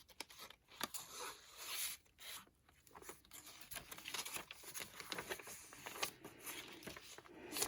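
Paper pages and inserts of a handmade junk journal being turned and handled: soft paper rustling broken by scattered small clicks and taps, busier in the second half.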